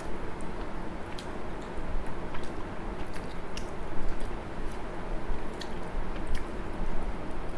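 A person chewing a mouthful of food, with wet mouth sounds and scattered small clicks of lips and tongue at irregular times.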